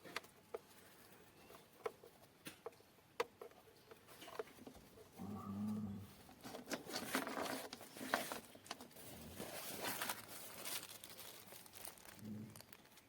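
Handling noises: scattered light clicks and taps, a brief low hum about five seconds in, then a few seconds of crinkling and rustling.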